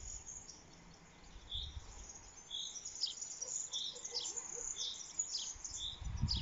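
A songbird calling: a short high note repeated about once a second, mixed with quicker, higher chirps.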